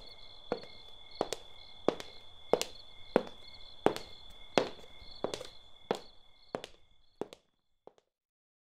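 A slow, even series of sharp knocks, about three every two seconds, growing fainter and dying away about seven seconds in, over a faint high steady ringing tone.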